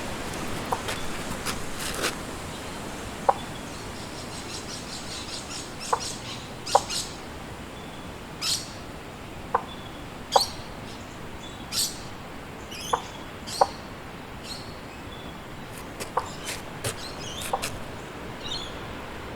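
Birds calling in short, irregular chirps, with a quick run of repeated high notes early on, over the steady rush of wind in the trees.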